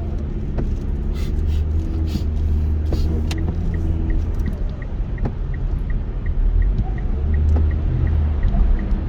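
Car driving, heard from inside the cabin: a steady low road and engine rumble, with a light even ticking about three times a second from a few seconds in.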